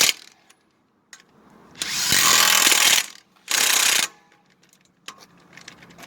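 A power tool running in two bursts of about a second each, driving fasteners during the axle replacement, followed by a few light clicks.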